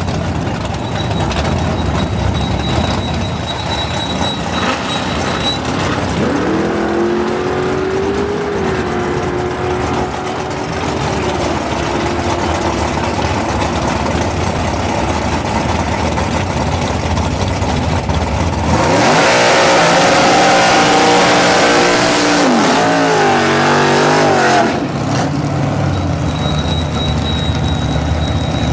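Holden VL Calais drag car's V8 running with a steady, lumpy low note. About six seconds in it rises to a higher speed and holds there for several seconds. About nineteen seconds in it is revved hard and loud for roughly five seconds, the pitch wavering near the end, then it drops suddenly back to its low idle.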